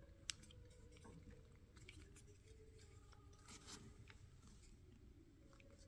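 Near silence with a sharp click just after the start and a few faint scrapes and ticks later, as small parts of a lawnmower carburetor are handled and fitted back together.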